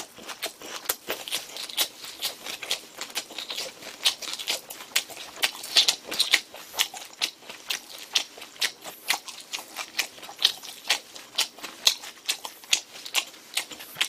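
Close-miked wet chewing of a large mouthful of a lettuce wrap with grilled pork belly: a steady run of quick smacking clicks, about two to four a second.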